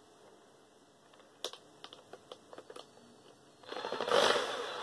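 A few light clicks and taps of metal parts, then, near the end, a small power tool's motor starts and runs with a steady whine, working on a bolt in a metal desk fan.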